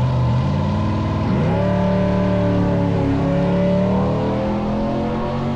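Car engine running at low speed, then rising in pitch about a second and a half in as it revs up, and holding the higher speed with a slight waver.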